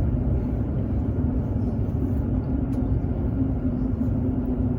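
Cabin noise of a Hokuriku Shinkansen train running: a steady low rumble with a faint constant hum.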